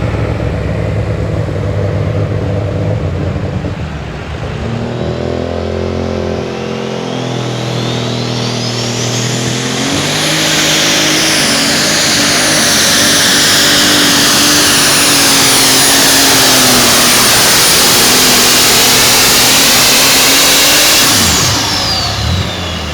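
Turbocharged diesel engine of a pulling semi or tractor winding up with a rising whine, then running flat out under load for about eleven seconds with a high steady whistle over it. The sound drops away quickly near the end as the throttle comes off.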